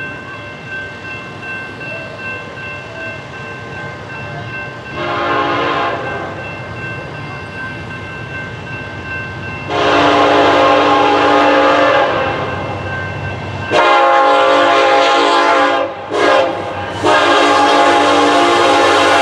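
Diesel locomotive's multi-chime air horn blowing the grade-crossing signal of long, long, short, long blasts, over the rumble of the approaching train; a single short blast comes a few seconds earlier.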